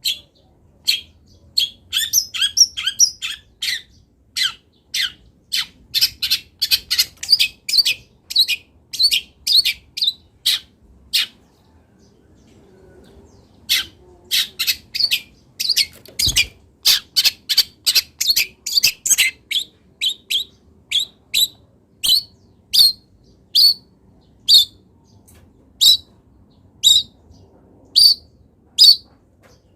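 Long-tailed shrike (cendet) calling in a long series of short, sharp high notes. A fast chattering run comes near the start, then a pause of about two seconds in the middle, and the notes slow to about one a second toward the end.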